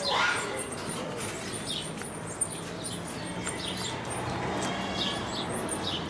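Birds chirping: short, high chirps scattered irregularly over a moderate background.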